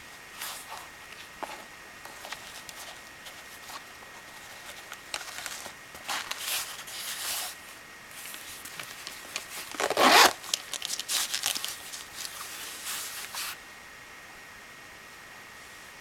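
Hands handling packaging and accessories, with intermittent rustling and scraping and one louder rasp about ten seconds in. The handling stops a couple of seconds before the end, leaving a faint steady hiss.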